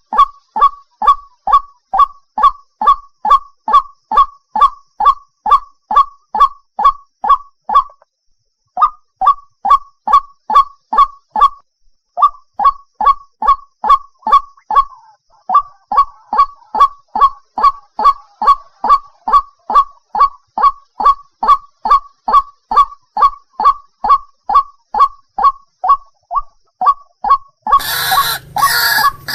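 White-breasted waterhen (ruak-ruak) giving its loud, monotonous honking call, short notes repeated about three times a second with two brief pauses. Near the end a louder, harsher sound cuts in.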